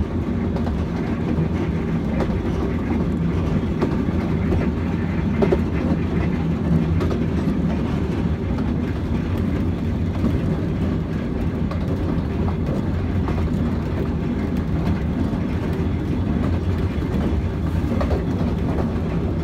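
Ravenglass & Eskdale Railway's 15-inch-gauge train heard from inside a moving carriage: a steady low rumble of wheels on rail, with scattered light clicks.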